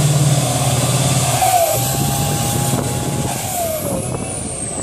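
Competition trial truck's engine running hard, with a high whine that falls away near the end.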